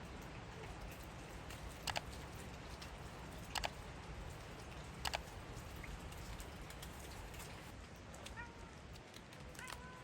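Steady rain patter, broken by three sharp knocks about a second and a half apart, the loudest sounds here. Near the end a farm bird gives a few short honking calls.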